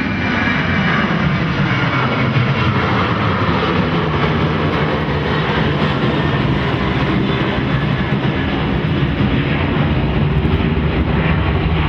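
Loud, steady drone of an aircraft engine, an aeroplane passing.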